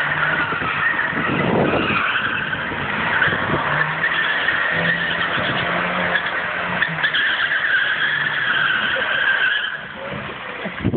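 Moskvich 2140's tyres squealing in a long, wavering screech over the running engine, dying away near the end.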